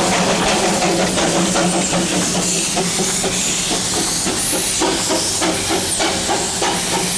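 Darjeeling Himalayan Railway toy-train steam locomotive hissing loudly as it blows off steam. From about halfway through, a quick, regular run of beats sounds over the hiss.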